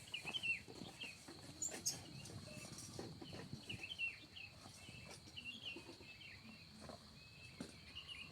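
Faint birds chirping: a steady run of short, repeated calls, with a few light clicks and knocks among them.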